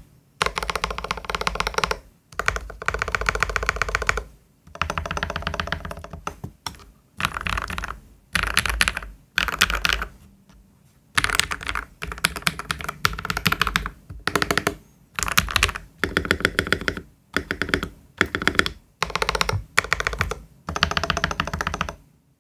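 Typing on a Keychron V1 mechanical keyboard with lubed KTT Kang White V3 linear switches, foam-dampened, and NOIR Matcha keycaps: rapid runs of keystrokes in bursts of a second or two with short pauses between them, stopping near the end.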